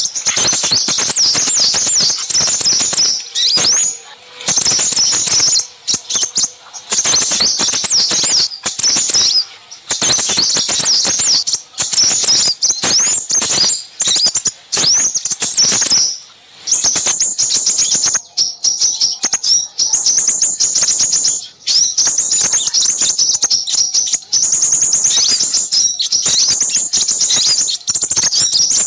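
A busy chorus of small songbirds chirping and trilling rapidly and high-pitched, in dense phrases with brief pauses: a lure call recording used to attract crimson sunbirds.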